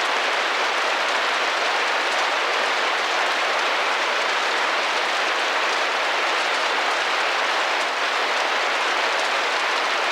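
Steady rain pattering on a window pane: a dense, even hiss of drops without a break.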